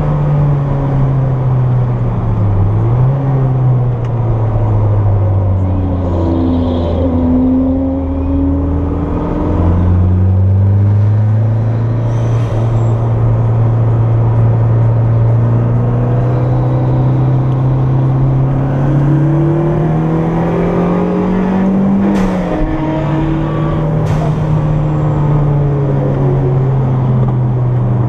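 Turbocharged Toyota MR2 engine heard from inside the car under track driving. The engine note dips briefly as a gear changes, falls away, then climbs steadily for several seconds under acceleration. It drops sharply at another gear change and then holds steady, with a quick dip near the end.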